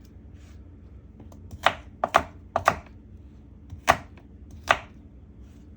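Kitchen knife chopping apples into pieces on a cutting board: five sharp chops, three in quick succession and two more spaced out.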